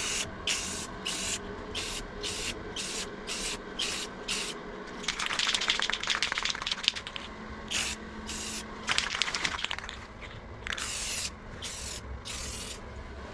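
Aerosol spray can of clear coat hissing in short bursts, about two a second, then in longer passes of a second or two, laying a light coat of clear.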